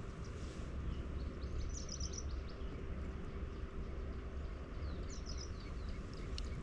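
Outdoor ambience: a steady low rumble and hiss, with a bird chirping in two quick bursts of high notes, about two seconds in and again about five seconds in.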